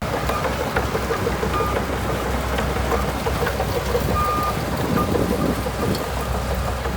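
Shantui DH17C2 bulldozer's diesel engine running under a steady low drone, with a regular rapid clatter through it, about four a second. A few short, high beeps sound about a second and a half in and again around four seconds in.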